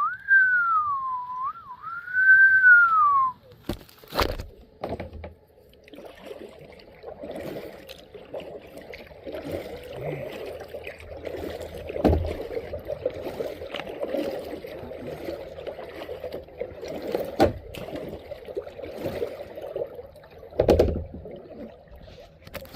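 A person whistles a short two-phrase tune that slides up and down at the start. Then kayak paddling takes over: water gurgling and splashing steadily, with a few sharp knocks.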